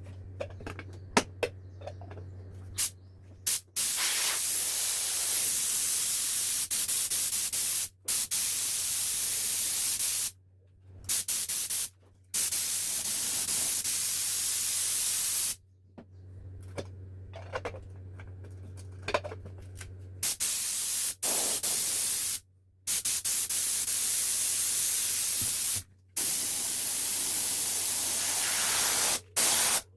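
Compressed air from a homemade refrigerator-compressor air compressor hissing out in long bursts that start and stop abruptly, over a steady low hum. A few clicks come in the first seconds.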